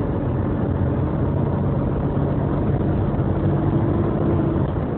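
Steady engine and road noise of a moving car, heard from inside the cabin: an even low hum with no change.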